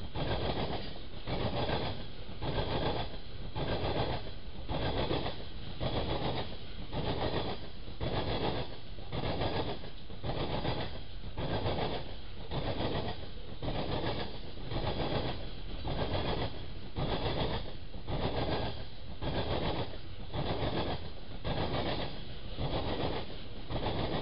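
Freight cars of a passing train rolling by, their wheels beating on the rails in a steady rhythm of about three beats every two seconds over a continuous rumble.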